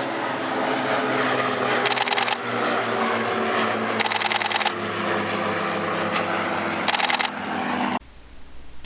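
Propeller engines of Diamond light aircraft flying in formation, a steady drone, with three short bursts of rapid camera-shutter clicks. The sound cuts off suddenly near the end.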